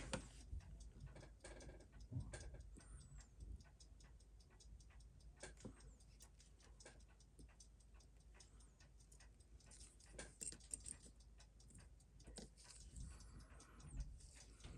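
Faint, irregular light clicks of metal tweezers and small tools working on a mechanical watch movement.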